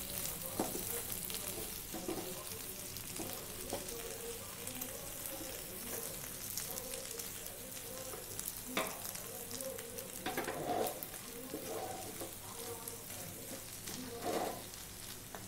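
Chicken pieces frying in oil in a non-stick pan, sizzling steadily as a wooden spatula stirs and turns them. A few sharper scrapes and knocks of the spatula against the pan stand out, about a second in and several times in the second half.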